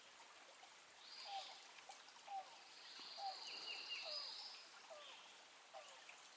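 Faint wild animal calls: a short falling note repeats about once a second, with longer, higher notes over it.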